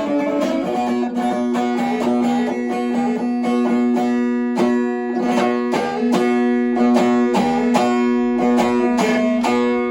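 Double-necked doğaç, a Turkish plucked string instrument, being played: a quick melody of sharply plucked notes over a steady low note that rings on throughout.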